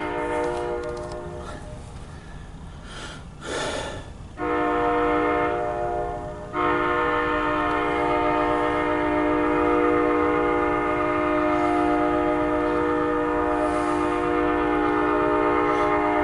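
MARC commuter train's multi-chime air horn sounding a series of blasts: a short blast, then one of about two seconds, then one long held blast of about ten seconds. There is a brief burst of noise between the first two blasts.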